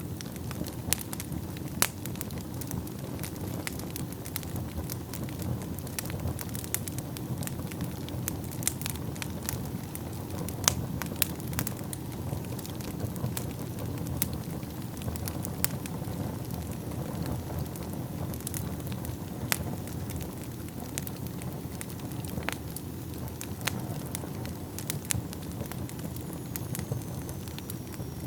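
Wood fire burning in a fireplace: a steady low rumble of flame with frequent irregular sharp crackles and pops. Near the end a faint high whistle slides down in pitch.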